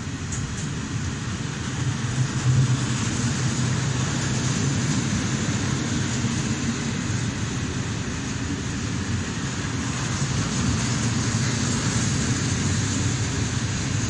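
Freight train of open wagons loaded with logs rolling past, a steady rumble and rush of steel wheels on the rails, briefly louder about two seconds in.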